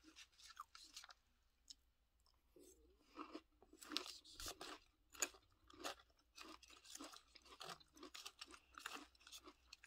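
Close-up chewing of a mouthful of Apple Pie Toast Crunch cereal in milk: a steady run of soft crunches, about two to three a second, starting a couple of seconds in.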